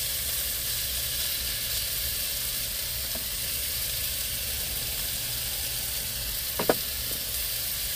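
Large pieces of meat sizzling steadily in a hot pan, with one sharp click of a utensil late on.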